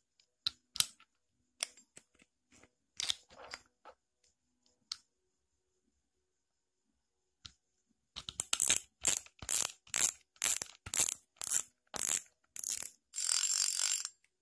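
Spinning reel's drag clicker, fitted with a new spring in the spool to make it louder, clicking as line is pulled off: a few faint clicks at first, then after about eight seconds a run of loud ratcheting pulses about two a second, running together into a fast continuous rattle near the end. The clicker is now really loud.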